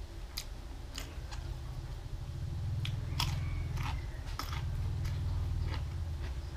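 Crunchy bites and chewing of a raw cucumber slice: a string of short, sharp crunches, with a low hum underneath.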